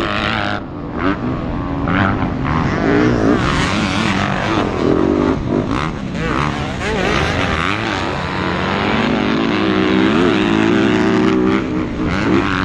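Several motocross bikes racing together, their engines revving up and down as the riders shift and throttle, with the pitches of different bikes overlapping.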